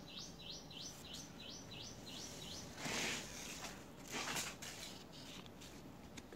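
A bird calling in a quick series of short, sharply rising chirps, about three a second, which stops about two and a half seconds in. Two short rustling noises follow, about three and four and a half seconds in.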